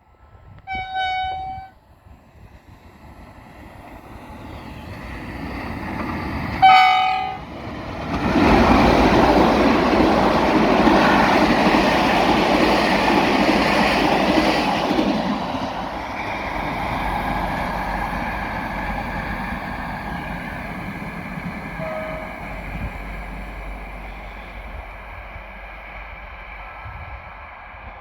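Passenger train sounding its horn twice as a greeting from the driver, a short blast and then a louder one, as it approaches. It then rumbles past close by, loudest for several seconds, and the sound of the cars slowly fades away.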